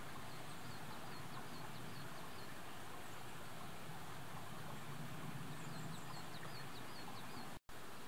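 Outdoor ambience of a steady hiss, with a small bird calling a quick run of about seven short high notes twice: near the start and again about five and a half seconds in. The sound drops out for an instant near the end.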